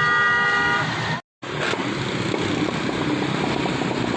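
A vehicle horn sounds once, a steady tone lasting just under a second, over continuous road traffic noise. Just after it the sound cuts out completely for a moment, then the traffic noise carries on.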